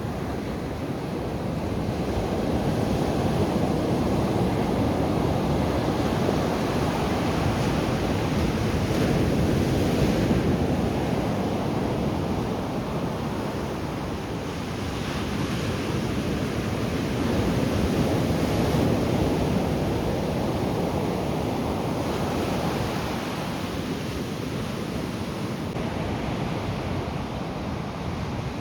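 Atlantic Ocean surf: waves breaking and washing up the beach in a steady rush that swells and ebbs over several seconds, loudest in the first third and again around two-thirds of the way through.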